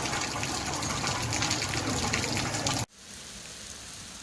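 Heavy monsoon rain with water gushing and pouring. Nearly three seconds in it cuts off abruptly to softer, steadier rain.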